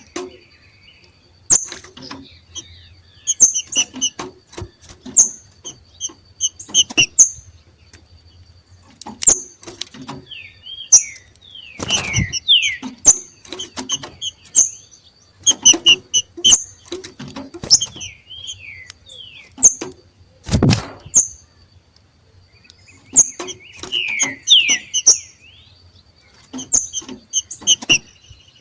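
Two green-winged saltators (trinca-ferro) giving their 'macheado': bursts of sharp, repeated high call notes mixed with short descending chirps, the excited calling of birds coming into breeding condition. A faint steady high tone lies underneath, and two loud low thumps come about a third and two thirds of the way through.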